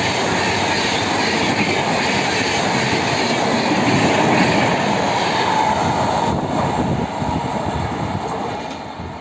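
Express train's passenger coaches rushing past at speed, wheels clattering over the rails in a dense, steady rush. The noise drops away about seven seconds in as the last coach goes by and recedes.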